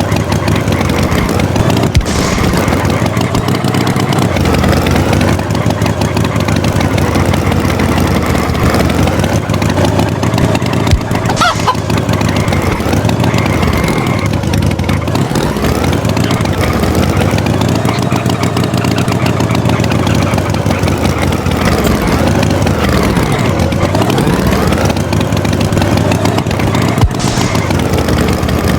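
A motor vehicle engine running continuously, its pitch rising and falling several times as it revs.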